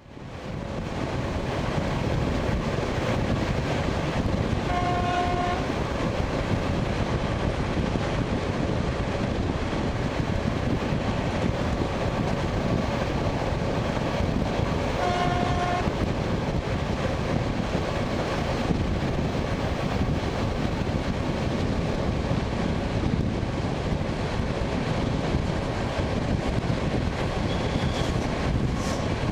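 ED9MK electric multiple unit heard from inside the car at speed: a steady rumble of wheels on rail that fades in during the first second. Two short high horn signals sound about ten seconds apart, each under a second.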